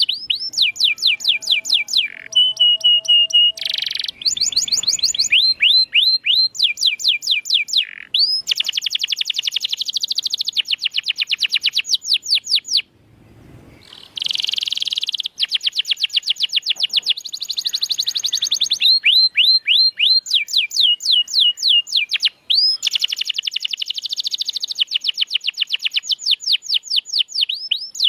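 Domestic canary singing a long, fast song of trills, each run made of rapidly repeated sweeping notes, several a second. Early on there is a held whistled note, and about halfway there is a brief pause.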